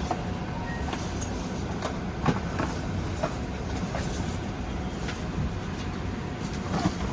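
Boeing 737-800 cabin before departure: a steady low hum with a few short knocks and clicks scattered through, the loudest one near the end.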